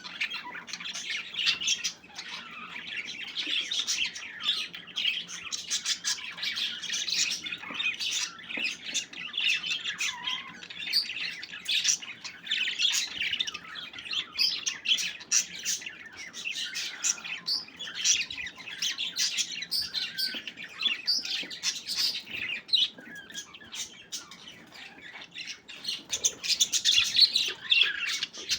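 Flock of budgerigars chattering continuously, a dense overlapping mix of chirps, warbles and squawks.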